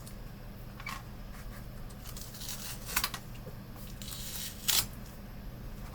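Small plastic monitor parts being handled and fitted by hand: a few light clicks and scrapes, a sharp click about three seconds in, and a louder short rustle a little before the end, over a steady low hum.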